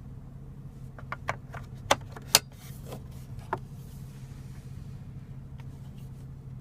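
Sharp plastic clicks and knocks as the center-console ashtray lid and tray of a BMW 435i are opened and handled. They come mostly in the first half, over a steady low hum.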